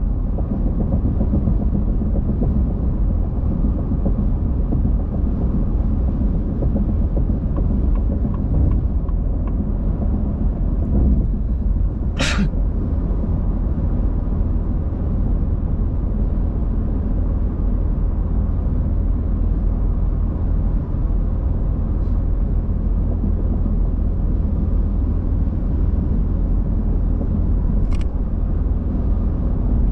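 Steady low rumble of a car driving on the road. A brief sharp high-pitched sound cuts through about twelve seconds in, and a fainter one near the end.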